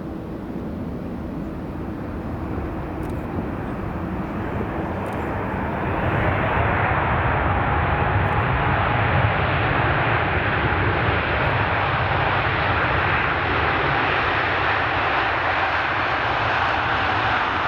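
Jet airliner engines, growing louder about six seconds in and then holding loud and steady.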